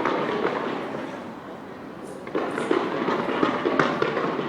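Fireworks display bursting and crackling in a dense, continuous barrage. It eases off briefly about a second in, then comes back louder with sharp pops from a little past two seconds.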